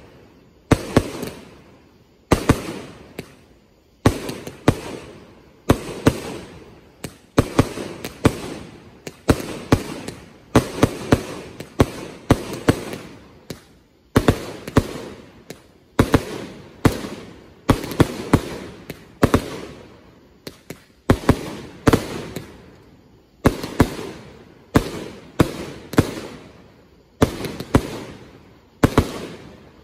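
A 500-gram Magical Barrage firework cake firing a steady barrage of loud, sharp bangs, about one to two a second, many in close pairs, each trailing off in an echo.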